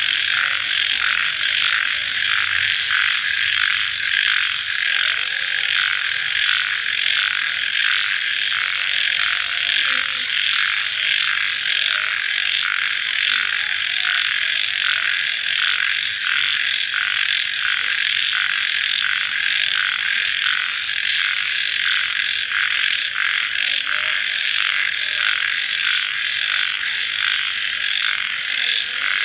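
Field crickets chirping at night after rain: a dense, steady chorus of rapid pulsing calls that never lets up.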